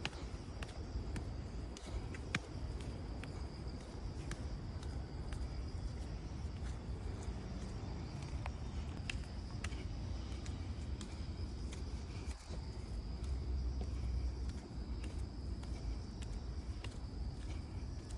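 Mountain-forest ambience: insects chirring in a steady high-pitched drone, over a continuous low rumble and scattered small ticks.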